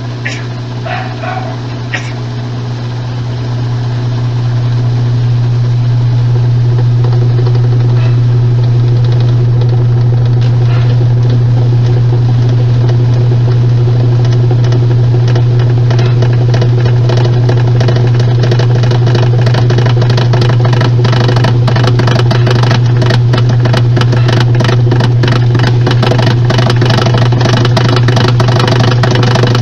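Washing machine running with a completely damaged transmission: a loud steady hum that builds over the first few seconds, then a fast, dense rattle that grows stronger over the second half. The noise is the sign of a failed transmission that needs replacing.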